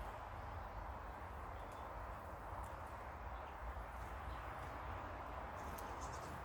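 Steady outdoor background hiss and low rumble, with a few faint, short, high bird chirps near the end.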